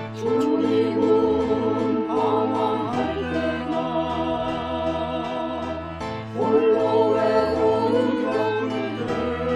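A gospel hymn sung with vibrato over a sustained instrumental accompaniment. The sung phrases start just after the opening and again about six seconds in.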